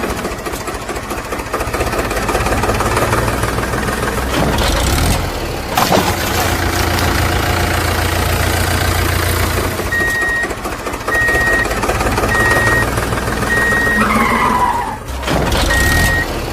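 Heavy-vehicle engine sound effects running steadily, with a couple of knocks. From about two thirds of the way in, a reversing alarm beeps about once a second.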